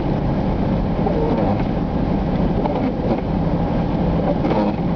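Steady engine and road noise heard inside a moving vehicle's cabin.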